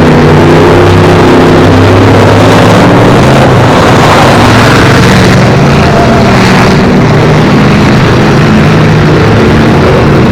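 Several race car engines running hard at once, loud and steady, their pitches shifting up and down as they rev.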